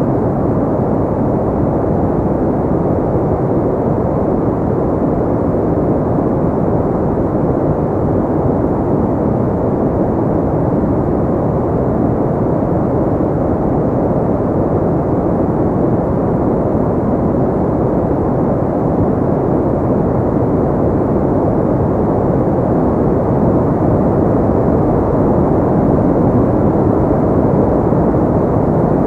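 Steady, unchanging noise of the white-noise kind, deep and rumbling, with its energy in the low and middle range and almost nothing high, like a dull rush.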